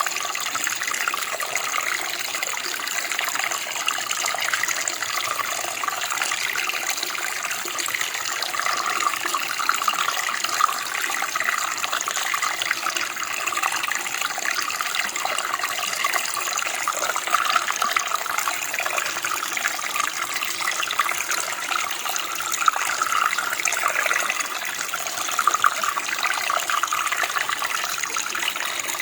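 Steady rushing of running water, an even splashing flow with no pauses.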